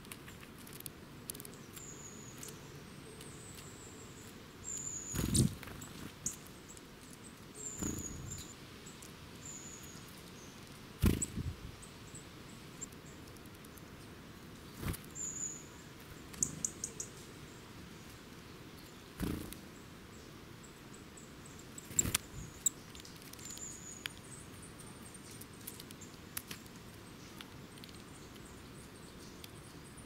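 Small woodland birds, a Eurasian nuthatch and a coal tit among them, landing at and leaving seed on the ground close to the microphone: a short wing flutter every few seconds, about six in all, with short high chirps in between.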